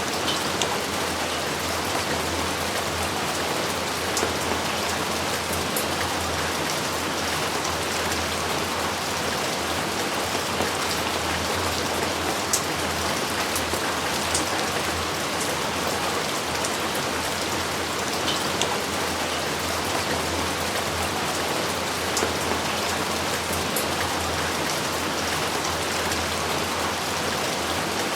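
Steady heavy rain with individual drops now and then, close to the microphone. No thunder is heard.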